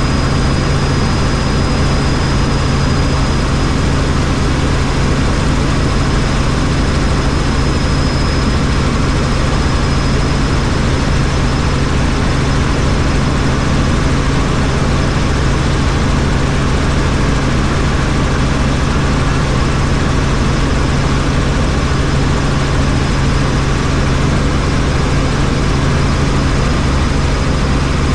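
Helicopter in steady cruising flight: an unchanging drone of rotor and turbine engine, with a thin high whine that fades about halfway through and comes back near the end.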